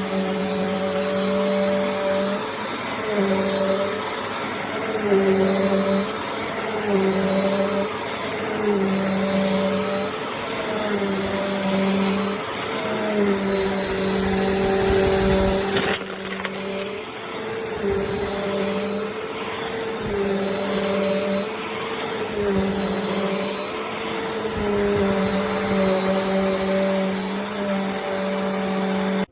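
Bissell CleanView Compact upright vacuum running steadily, its motor tone shifting every second or two under a constant high whine. It cuts off abruptly at the end.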